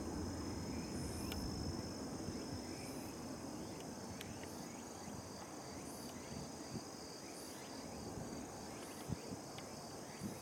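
Low rumble of a Shinkansen train running on the line, fading over the first few seconds. Insects trill steadily throughout, with a short higher chirp repeating about every second and a half.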